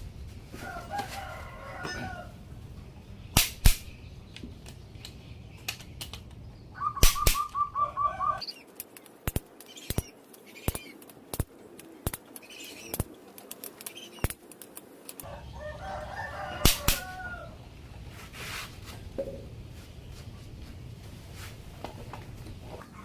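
Chickens clucking and calling in three bouts, one a quick run of clucks about seven seconds in, among scattered sharp knocks.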